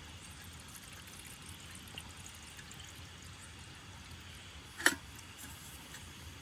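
Steady rain, with one sharp tap or knock about five seconds in.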